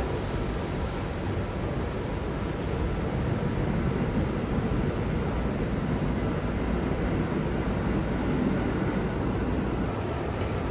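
Steady, even rumble and hiss of an R211 subway train in the station.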